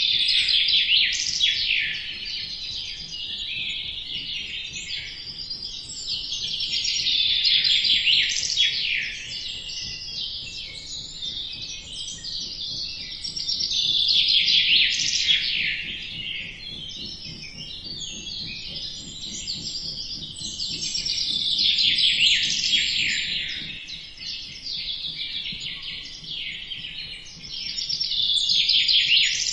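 Many small birds chirping together in a dense chorus of quick, high chirps, swelling louder and fading back about every seven seconds.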